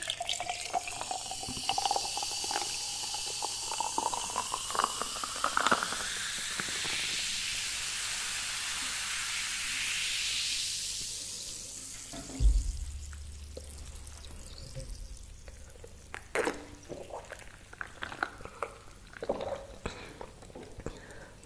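Liquid being poured into a container, its pitch rising steadily as the vessel fills, followed by a second stretch of pouring. A single sharp thump comes just past the middle, then scattered small clicks and taps.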